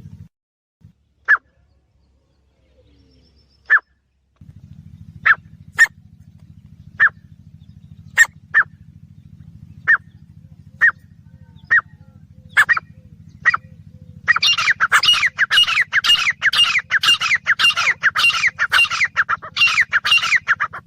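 Female grey francolin calling: single short, sharp notes about a second apart, then, from about two-thirds through, a fast, loud run of calls, each falling slightly in pitch.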